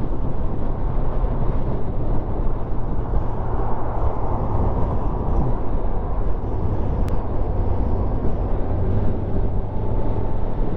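Motorcycle riding noise, heard from the rider's helmet-mounted camera: steady wind rush over a low engine hum from the Kawasaki at cruising speed. A single sharp click sounds about seven seconds in.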